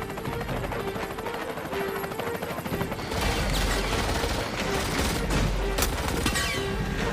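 Rapid automatic gunfire in a film action scene, with a tense music score underneath; a low rumble comes in about three seconds in.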